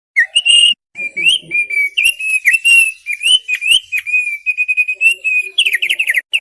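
Thick-billed heleia (opior paruh tebal) singing a fast, varied song of whistled notes that glide up and down. Near the end it breaks into a quick run of short falling notes.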